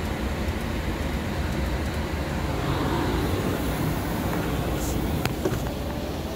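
A 2010 Holden Commodore's 3.0 L V6 engine running, heard from inside the cabin as a steady low rumble.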